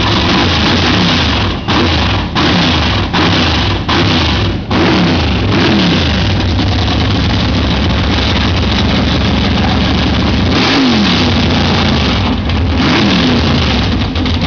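Chevrolet car engine being revved hard and loud: a run of quick throttle blips in the first few seconds, then held at high revs, with the revs falling away twice near the end before picking up again.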